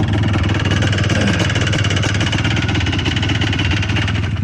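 Yamaha Blaster quad's two-stroke single-cylinder engine, fitted with a Pro Circuit exhaust, running steadily with rapid, even firing pulses and no revving.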